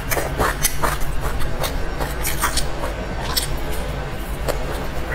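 Close-miked chewing and mouth sounds of eating steamed dumplings, with irregular sharp clicks and crackles, over a steady low hum.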